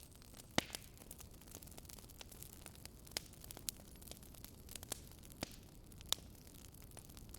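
Campfire burning: wood crackling with irregular sharp pops and snaps over a faint steady hiss. The loudest pops come about half a second in and near the end.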